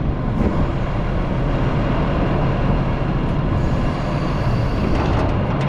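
Excavator's diesel engine running steadily while it works a grapple saw, with a few light clicks near the end.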